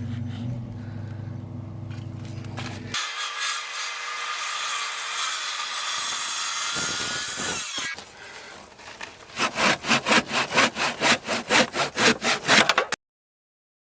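Hand saw cutting through timber in quick, regular back-and-forth strokes, about three a second, over the last few seconds. Before that comes a steady low hum, then a rasping cut lasting several seconds.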